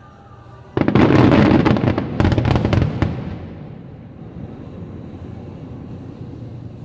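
Fireworks: about a second in, a sudden barrage of rapid crackling bursts begins. It runs for about two seconds with a brief break in the middle, then a rumbling echo dies away.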